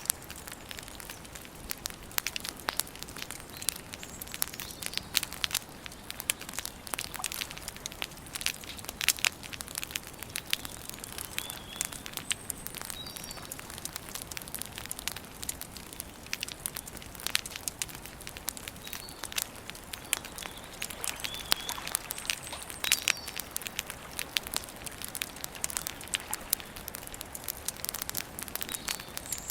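Campfire crackling and popping steadily, with dense sharp snaps over a soft hiss. Faint short bird chirps come through now and then.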